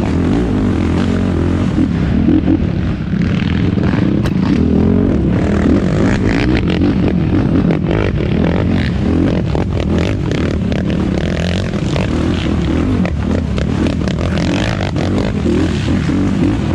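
Yamaha YFZ450R quad's single-cylinder four-stroke engine running hard, its pitch rising and falling with the throttle. Frequent clattering and knocking from the machine over rough ground runs through it.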